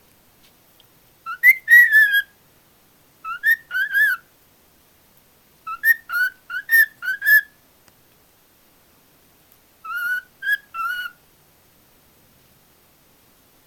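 Pet cockatiel whistling: four short phrases of a few quick up-and-down whistled notes each, a couple of seconds apart.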